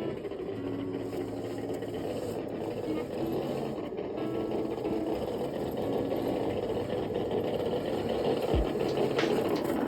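Electric motor and geared drivetrain of a Traxxas TRX6 6x6 RC crawler whining as it pushes a plow through snow, the whine coming and going as the throttle is worked. A few low thuds near the end.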